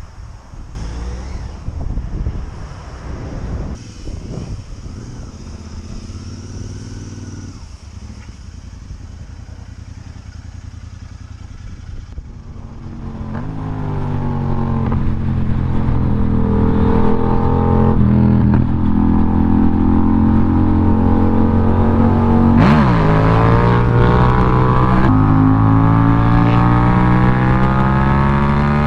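Yamaha MT-07's 689 cc parallel-twin engine through a baffle-less aftermarket full exhaust system, running at low revs at first. From about halfway it accelerates hard, the pitch climbing and dropping back at each of several gear changes.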